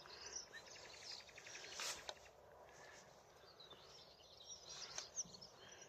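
Faint nightingale calls: a rapid rattling run of notes lasting about a second, then scattered short high chirps.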